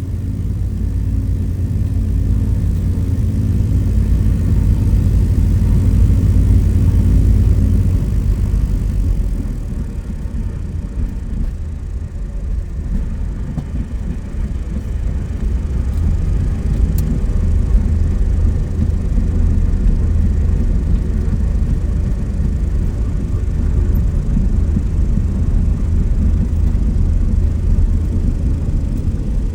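Steady engine drone, a low rumble with a held tone that gives way to a rougher, noisier rumble about eight seconds in.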